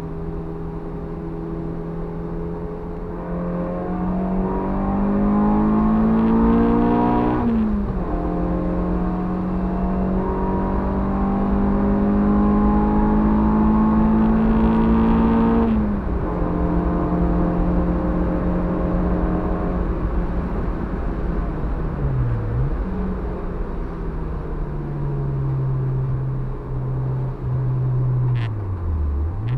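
Honda Civic EG6's B16A2 1.6-litre four-cylinder engine under hard acceleration, heard inside the stripped-out cabin. The revs climb and drop sharply at an upshift about seven seconds in, climb again and drop at a second upshift about sixteen seconds in, then hold lower. They dip and pick up again twice in the last eight seconds.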